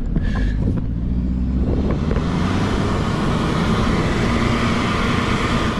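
2000 Nissan Patrol 4x4's engine running off-road. A loud, even rushing noise comes in over it about two seconds in.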